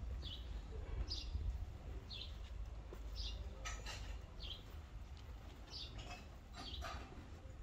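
A small bird chirping over and over, short high chirps about once a second, over a steady low rumble.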